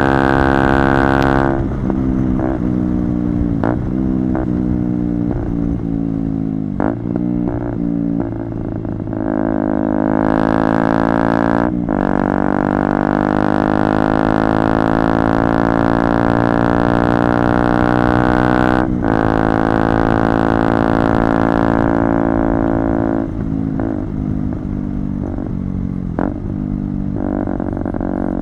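KTM Duke 125's single-cylinder four-stroke engine running hard through a Radical Racing GP carbon exhaust with the dB-killer removed, a loud raspy note. Short sharp breaks in the note come every second or so early on, then it holds longer stretches of steady high revs with slowly shifting pitch and a couple of further breaks.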